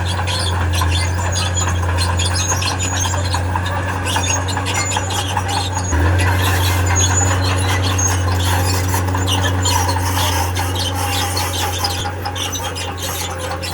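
Steel crawler tracks of a heavy diesel earthmover squealing and clattering as it moves, over the steady low drone of its engine. The engine note shifts and gets a little louder about six seconds in.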